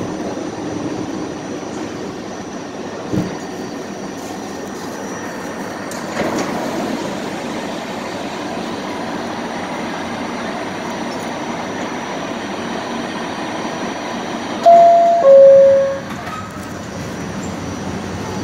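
Kawasaki R68A subway car, heard from inside, with a steady rail rumble and a couple of short knocks. Near the end the car's door chime sounds loudly as two descending tones, the signal that the doors are about to close.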